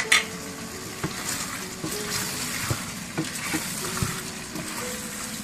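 Chicken and spice masala sizzling in a steel pot, with a few short knocks as the pot is stirred.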